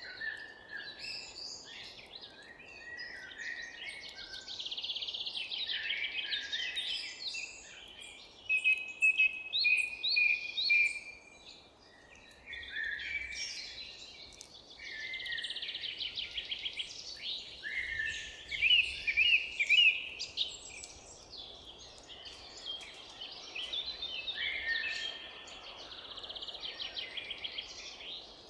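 Several forest songbirds singing at once, a dense chorus of chirps, trills and rapid note series that overlap without a break, over faint steady background noise. The song is loudest around a third of the way in and again past the middle.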